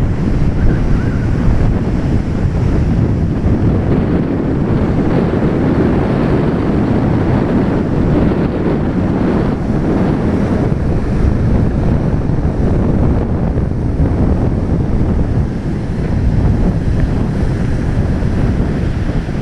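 Sea waves washing and breaking in strong wind, with the wind buffeting the microphone in a steady low rumble.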